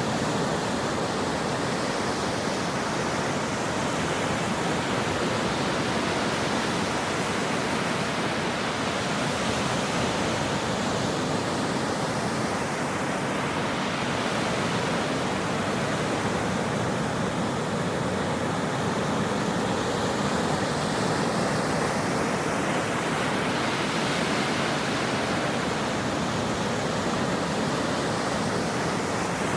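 Ocean surf: a steady, even rush of breaking waves with no single wave standing out.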